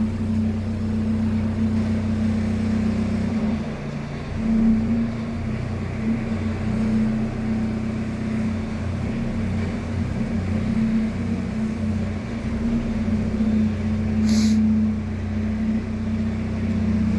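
VM41B 2.5-litre four-cylinder turbodiesel (Opel Frontera 2.5 TDS) running steadily at idle. A brief high-pitched click sounds near the end.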